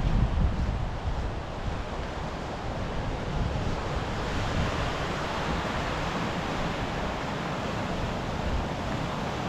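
Steady rushing of sea surf washing onto the shore. Wind buffets the microphone with a low rumble in the first second or so, then eases.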